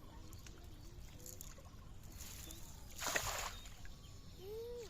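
A short splash of water about three seconds in, over a low steady rumble.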